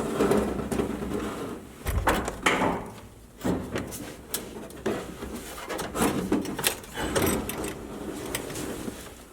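Irregular clunks, knocks and scraping as an air-conditioning and heater unit is worked into place under a car's dashboard. There is a heavier thump about two seconds in, with lighter clicks and rubbing around it.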